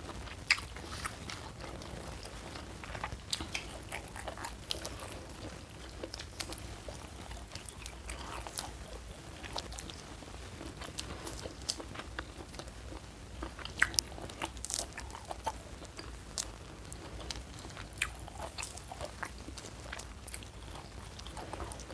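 Close-miked eating: chewing, with sharp crunchy bites scattered throughout, several of them distinctly loud.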